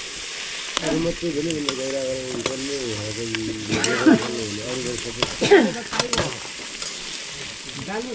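Food sizzling as it fries in a pan while being stirred, with utensil clicks and scrapes against the pan. A wavering pitched tone runs through most of it.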